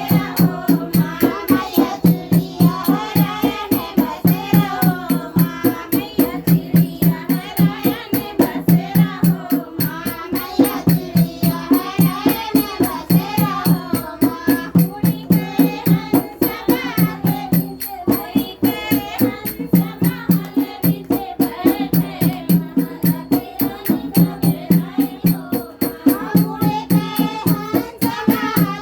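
Rural Hindi devotional folk song to the Mother goddess (a mata bhajan): voices singing over a dehati dholak that keeps a fast, steady beat of about three to four strokes a second.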